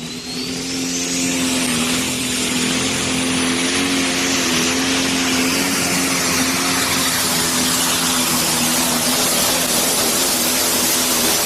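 Pro stock pulling tractor's 680-cubic-inch single-turbo engine at full power under load, a Minneapolis Moline G1355. It gets louder about a second in, then holds loud and steady, with a high turbo whine rising at the start.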